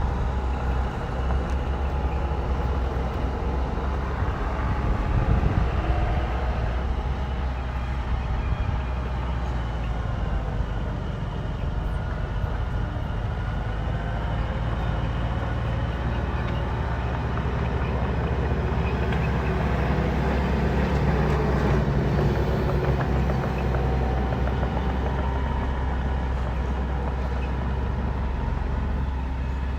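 Bulldozer's diesel engine running steadily under load with a heavy low rumble, its pitch shifting slightly now and then as it works.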